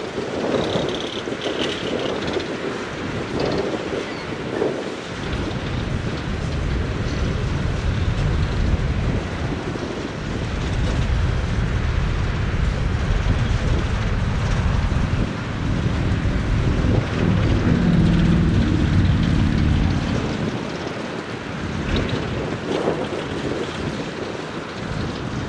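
Wind buffeting the microphone over the low rumble of a passing train, with a steadier low drone for a few seconds around the middle.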